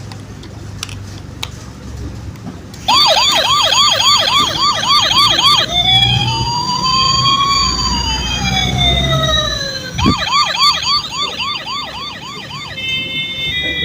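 Electronic police siren from a Lightning McQueen police toy car's small speaker. After a few seconds of faint clicks and rumble, it starts about three seconds in with a fast yelp about four times a second, changes to slower rising and falling wails, returns to the fast yelp, and ends in a rapid warbling tone.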